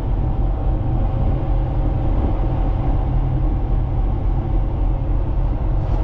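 Steady low rumble with faint steady humming tones above it: a tanker's machinery running with the main engine at minimum ahead.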